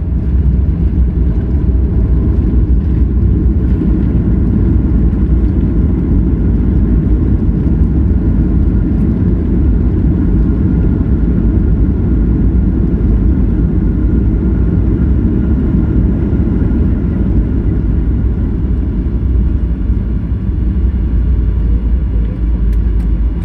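Cabin noise inside a flydubai Boeing 737 on the ground after landing: a steady, loud low rumble from the jet engines and airframe, with a faint steady whine above it.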